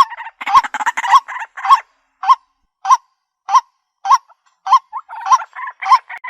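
White-breasted waterhen calling: a loud, steady series of 'kwak' notes, a little less than two a second. A busier, rougher chatter fills the gaps for the first couple of seconds, drops out in the middle, and comes back near the end.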